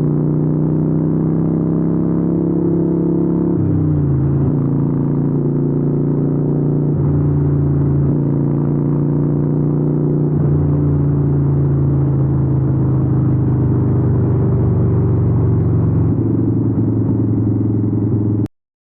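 Harley-Davidson 883N Sportster's air-cooled V-twin running through Vance & Hines exhausts while riding, at fairly steady revs with the engine note dropping and shifting a few times. The sound cuts off suddenly near the end.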